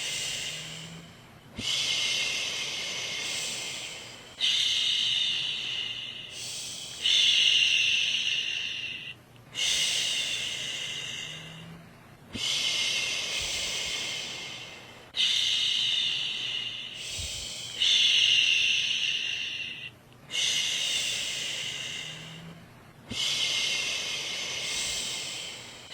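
A woman shushing a baby, repeating long 'shhh' sounds about every two and a half to three seconds. Each one starts sharply, then fades, with a short breath-gap before the next.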